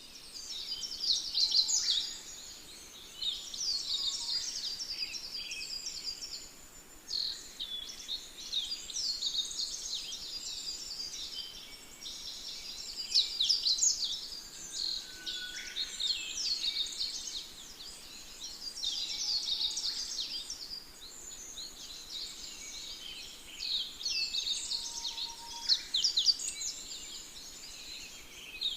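A chorus of many small birds chirping and twittering at once, a continuous mass of high, overlapping calls with louder flurries every so often.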